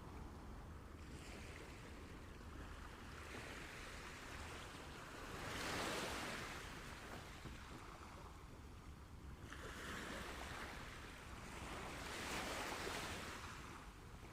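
Sea waves breaking and washing up the shore. Two swells of surf build and fall away, the louder one about halfway through and another near the end.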